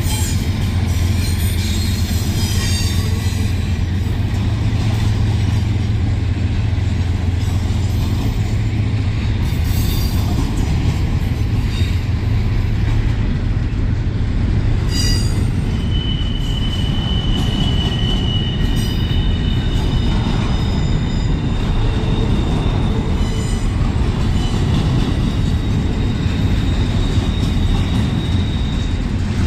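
Double-stack intermodal well cars rolling steadily past, a continuous rumble of steel wheels on rail. A low drone from the trailing Union Pacific diesel locomotive fades over the first several seconds. A high, steady wheel squeal comes in about halfway through and returns near the end.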